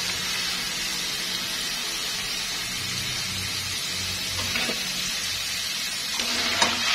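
Shredded taro deep-frying in hot oil in a cast-iron pan, a steady sizzle, the shreds now golden and crisp. A few light clicks of metal utensils against the pan come near the end.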